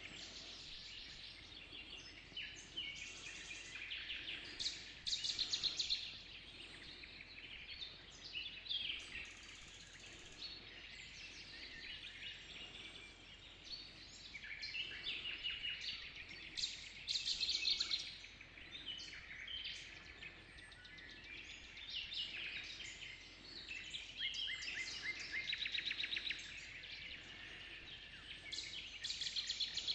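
Pre-dawn chorus of many birds singing and calling at once, overlapping chirps and rapid runs of repeated notes, with louder bursts every few seconds over a faint steady background.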